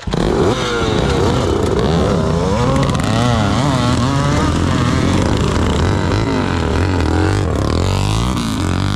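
Yamaha TT500 single-cylinder four-stroke dirt bike engine revving hard as it pulls away, cutting in suddenly and rising and falling in pitch with throttle and gear changes, with other motorcycle engines running around it.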